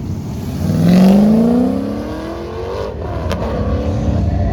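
A race-prepared pickup truck's engine accelerating hard, its pitch rising steadily for about two seconds, then fading away.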